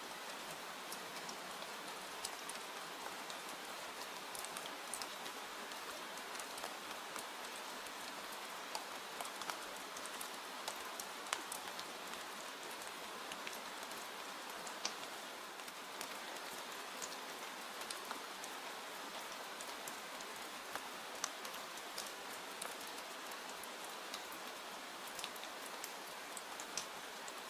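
Steady rain: an even hiss with many small sharp ticks scattered through it.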